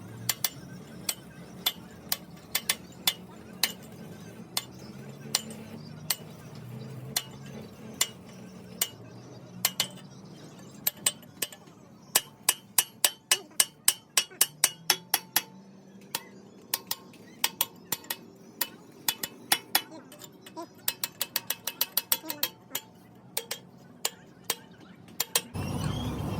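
Hammer striking metal again and again in sharp, ringing blows, some spaced out and some in quick runs of about three or four a second, with a faint low hum underneath.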